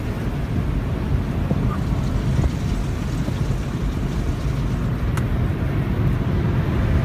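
Automatic car wash rinse: water spraying onto the car, heard from inside the cabin as a steady rushing noise with a low rumble.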